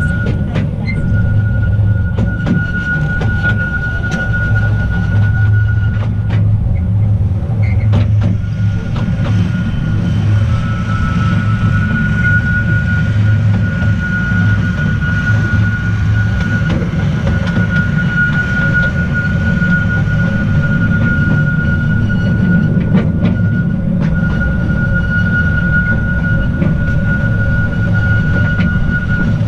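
Small narrow-gauge electric tourist train running: a steady low rumble with a high, even whine held through most of it, breaking off briefly twice, and scattered sharp clicks from the wheels and track.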